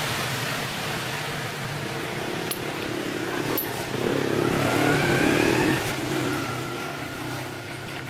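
A motor vehicle engine running steadily, getting louder with a rising whine from about four to six seconds in, then easing off.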